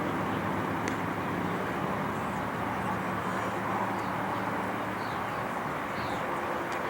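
Steady outdoor background noise with a few faint, short, high chirps.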